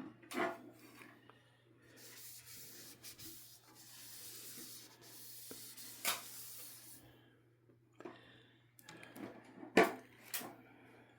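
Screwdriver scraping and rubbing against a jammed glass ceiling-fan light cover, with a few sharp clicks of metal on glass, as the cover is pried at to work it loose.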